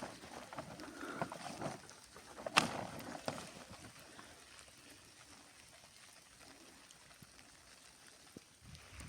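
Two sharp knocks, one right at the start and a louder one about two and a half seconds in, with rustling and scraping handling noise around them, then only a faint steady background.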